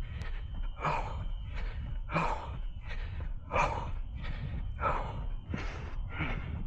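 A runner's heavy breathing under hard effort, in a steady rhythm of about three breaths every two seconds.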